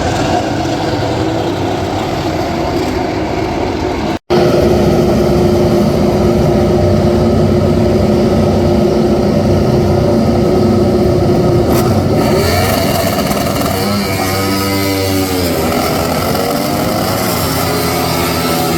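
Racing motorcycle engines running at high revs on the circuit, loud and continuous. About two thirds of the way through, their pitch drops and then climbs again as the bikes shift and pass.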